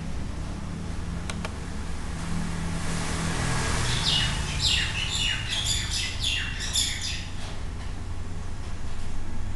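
A bird chirping: a quick series of short, falling high chirps, about three a second, for about three seconds starting about four seconds in, over a steady low hum and hiss.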